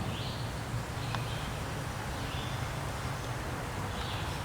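Outdoor creekside ambience: several short, high chirping calls, an animal calling every second or so, over a steady low hum.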